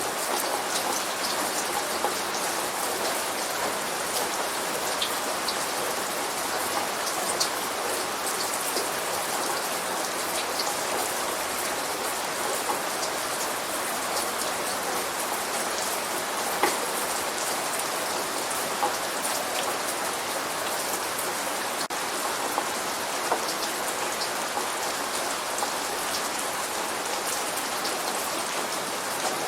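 Steady light rain falling: an even hiss of rain on a surface, with individual drops ticking sharply here and there.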